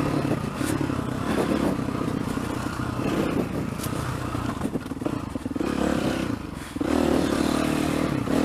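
Yamaha dirt bike engine running under throttle on a trail, with a few knocks. It eases off around six seconds in and is opened up again about a second later.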